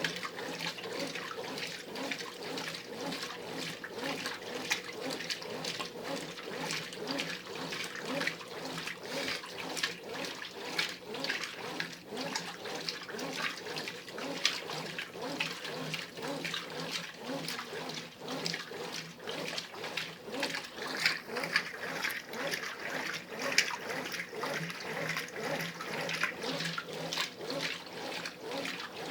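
Brastemp Ative 11 kg top-load washing machine agitating in the wash stage of its heavy cycle, churning water and clothes in a steady, repeating rhythm.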